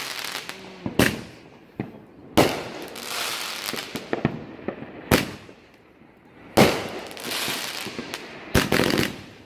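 Consumer fireworks going off: about five loud, sharp bangs, one to two and a half seconds apart, with a hissing tail of noise after several of them.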